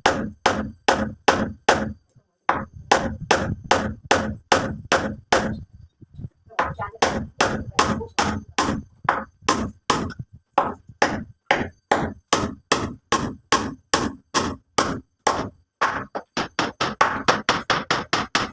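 A hammer striking repeatedly at about three blows a second, with two short pauses, then a quicker run of blows near the end.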